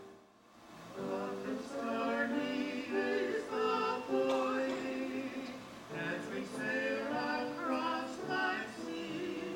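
Choir singing, with a brief break in the sound just after the start before the singing picks up again about a second in.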